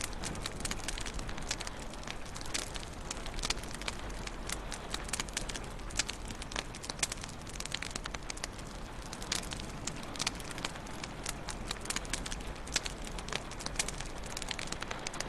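Wood fire crackling in a fireplace: frequent irregular pops and snaps over a steady hiss.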